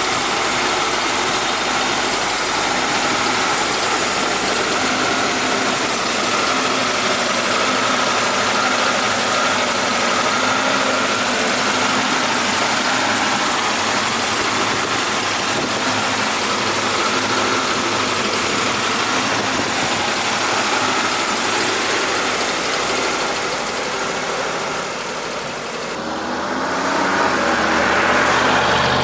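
Fuel-injected 5.8-litre Ford V8 in a 1956 Ford F100 running steadily at idle, the sound changing and rising in level near the end.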